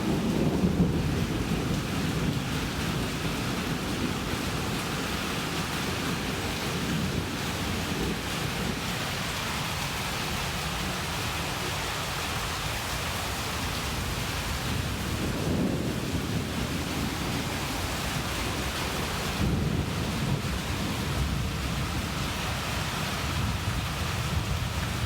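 Rain falling steadily during a thunderstorm, with low rumbles of thunder at the start and twice more later on.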